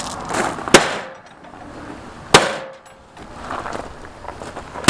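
Hammer blows against an MTD lawn tractor's body: three sharp clanging strikes about a second and a half apart, the first the loudest.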